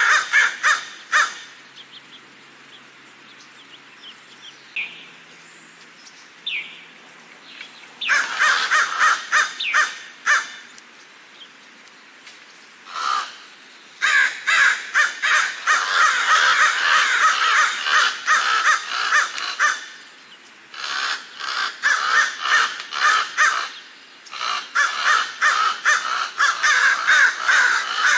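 Crows cawing in quick series of short, harsh calls. After a brief burst at the start comes a lull of several seconds with only a few faint calls, then long stretches of dense, overlapping cawing from several birds.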